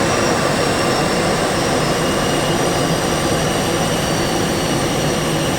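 Jet airliner engines running: a steady rushing roar with a faint high whine that slowly falls in pitch.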